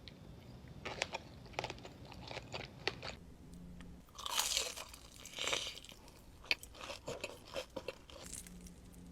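Close-miked eating sounds: a person biting and chewing crunchy food, crisp crackles with two louder crunches about four and five and a half seconds in.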